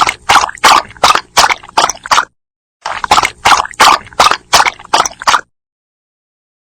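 A dog lapping water, about three laps a second, in two runs of around seven laps with a short pause between them.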